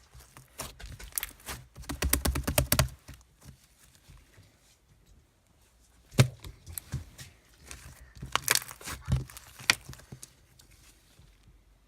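Irregular bursts of close rustling, crinkling and clicking handling noise, with a dense cluster about two seconds in and more sharp clicks later on.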